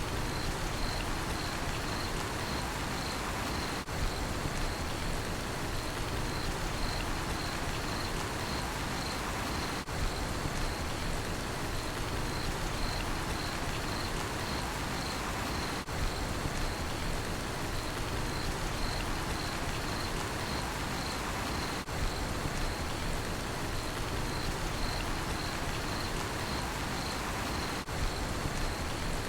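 Steady rainfall with crickets chirping in a regular, even rhythm on one high pitch. The level dips briefly about every six seconds.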